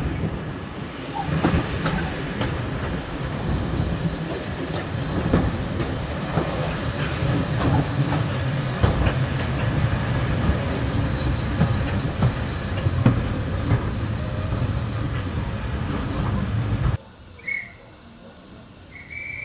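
Train running on the rails, with clicks from the wheels over the track and a thin, high wheel squeal through much of the middle. The sound cuts off suddenly near the end, leaving a much quieter background with a couple of short high tones.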